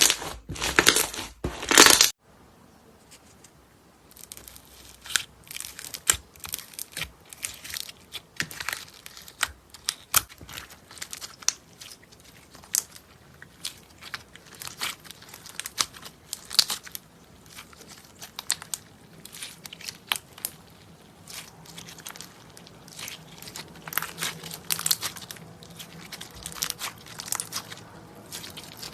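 Slime being squeezed and pressed by hand, making irregular crackling, crinkling pops. It is loud and dense for the first two seconds, goes nearly quiet briefly, then picks up again with softer, scattered crackles.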